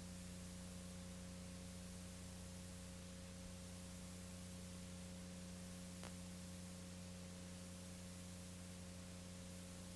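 Steady low electrical hum with an even hiss behind it, and one faint click about six seconds in.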